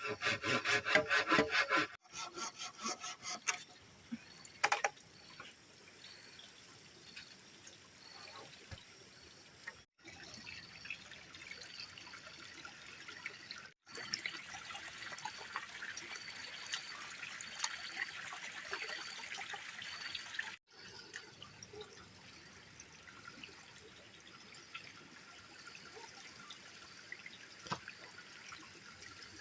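Water trickling steadily, with insects calling in short, evenly repeated pulses. The clip opens with about two seconds of fast, rhythmic scraping strokes.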